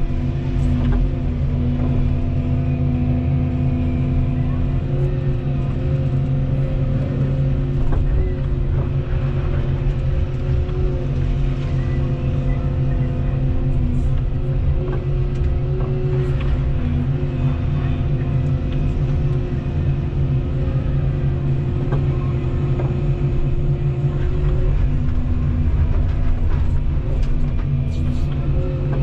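Volvo 235EL crawler excavator's diesel engine running steadily under hydraulic load, its hum stepping slightly in pitch now and then as the hydraulics work, with scattered short knocks.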